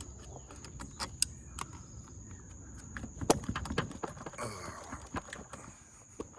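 Irregular metallic clicks and knocks from hand tools working a corroded battery terminal loose and lifting it off the post, with one sharper knock about halfway through.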